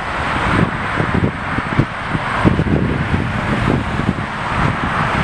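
Steady rumble of jet airliner engines, with wind buffeting the microphone.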